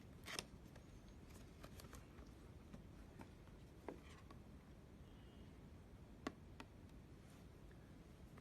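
Near silence: faint room tone broken by a few short, soft clicks, the clearest near the start, about four seconds in and about six seconds in.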